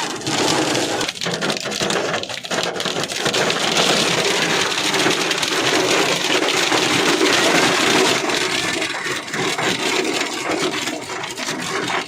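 Hailstones pelting down hard: a dense, steady clatter of countless small impacts over a heavy rain hiss.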